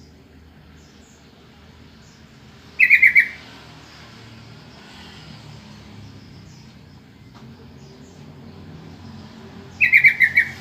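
Yellow-vented bulbul (trucukan) calling: two loud bursts of four or five quick chattering notes, each note dipping slightly in pitch, about seven seconds apart, over a low steady background hum. It is a call used as a lure to get other bulbuls to answer.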